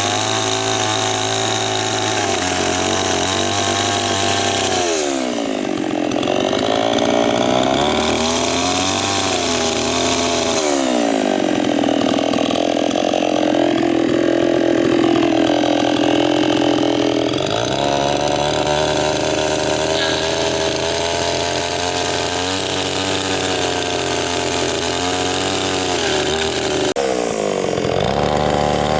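Chainsaw running hard. Its pitch drops several times as the chain bites into the wood under load and rises again as it frees up.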